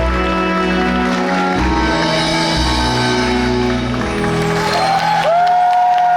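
Live stage-musical band music for the curtain call, with sustained chords over a strong bass line. About five seconds in it comes to a long held high note.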